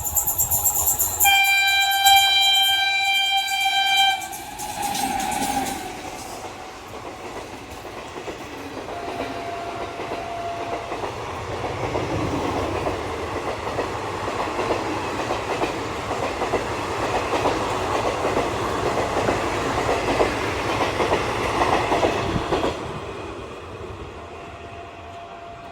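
Indian Railways train horn sounding one steady blast of about three seconds. Then a train runs past at speed with rapid clickety-clack of wheels over the rail joints; the noise builds and cuts off sharply about 22 seconds in.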